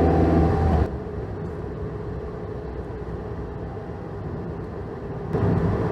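Vehicle engine running steadily: loud for about the first second, then dropping to a quieter low rumble, and growing louder again about five seconds in.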